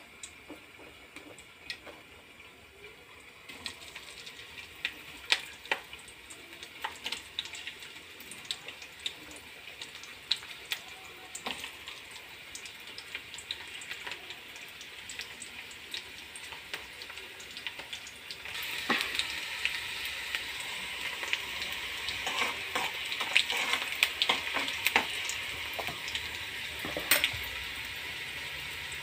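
Hot oil in an iron kadai sizzling as chopped green chillies and onion fry in it, with scattered sharp clicks. The sizzle is faint at first, builds, and steps up clearly louder about two-thirds of the way through.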